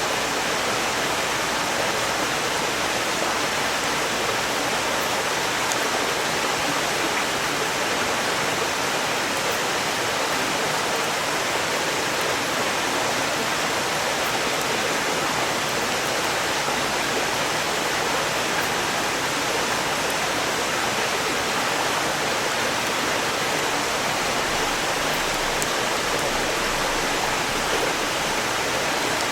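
Valley stream rushing steadily over rocks, a constant loud wash of water. A few faint crackles from a wood campfire barely show through it.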